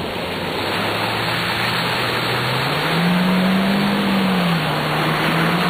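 Daihatsu Terios four-cylinder engine revving as the car is driven through mud, its pitch climbing about three seconds in, dipping briefly and rising again, over a steady rush of tyres churning through mud and water.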